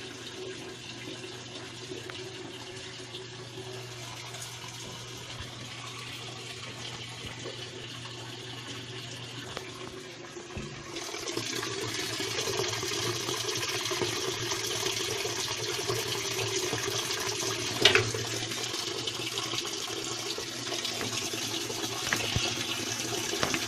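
Washing machine filling with water: a steady rush of incoming water over a low, even hum. The rush grows louder about eleven seconds in, and there is one sharp click near the end.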